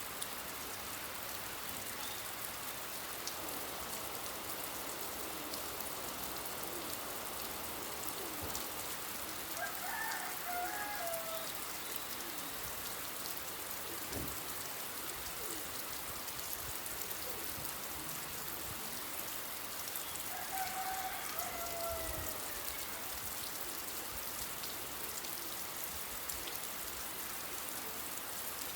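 Steady rain falling, with a bird calling twice, about ten seconds in and again about twenty seconds in.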